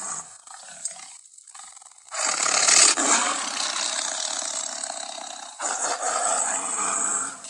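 Big cat roaring: a few soft growls, then a loud long roar about two seconds in, followed by a second, shorter roar.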